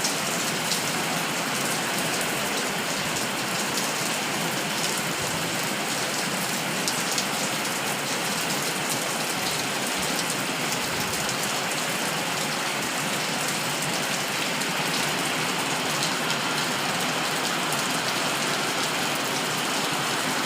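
Steady rainfall, a continuous even hiss of rain with many individual drops ticking on a surface.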